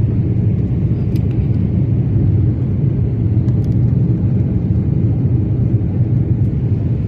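Jet airliner's engines and airflow heard from inside the passenger cabin as a steady low rumble, with a few faint ticks.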